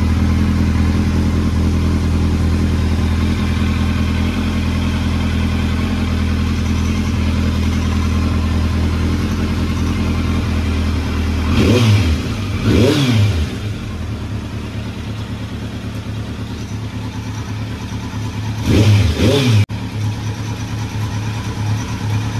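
Kawasaki Z900 inline-four engine idling steadily as it warms up on fresh oil after an oil change. The throttle is blipped twice in quick succession about halfway through, and twice more a few seconds later, each blip a brief rise and fall in revs.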